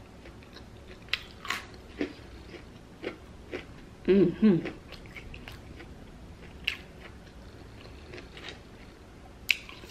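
A person chewing and biting crunchy food, crushed hot Cheetos, close to the microphone, with scattered sharp crunches and clicks and a brief hum from the voice about four seconds in.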